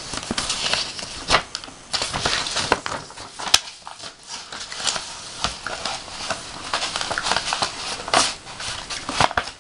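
Paper letter rustling and crinkling as it is handled and unfolded, with many irregular crackles.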